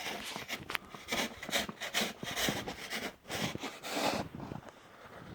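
Footsteps crunching through deep, heavy wet snow, about two steps a second, stopping a little before the end.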